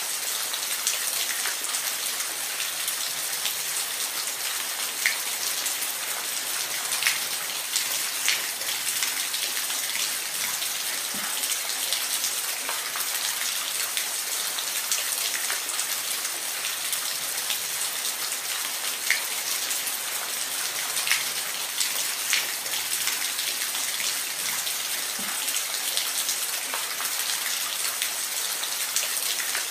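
Steady rain falling, a constant hiss with scattered louder individual drops ticking on a surface.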